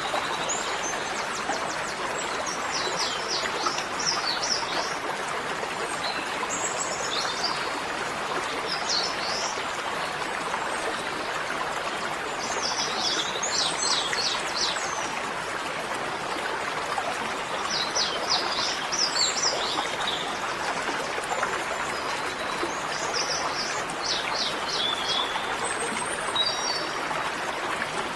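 Birds singing short clusters of quick high chirps every few seconds over the steady rush of running water.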